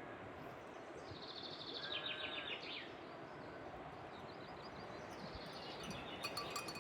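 Steady rushing of a mountain river, with songbirds singing over it: a trill about a second in and a fast run of repeated high notes near the end.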